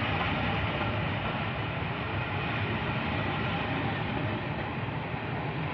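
Passenger coaches of a steam-hauled train rolling past a station platform: a steady rumble of wheels on the rails.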